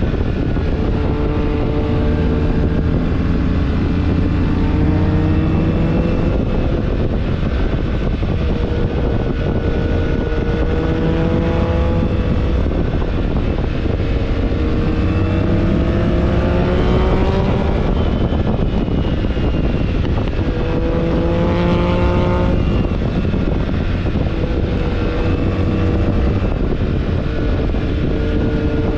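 BMW R1300GS Adventure's boxer-twin engine under way, its pitch rising over a few seconds and dropping back, about five times, over a steady low rush of wind on the microphone.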